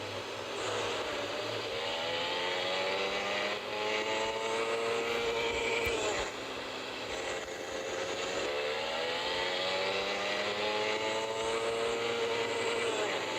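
Motorcycle engine pulling hard under full throttle, its pitch climbing steadily, falling about six seconds in, then climbing again and falling near the end, with wind rushing past the microphone.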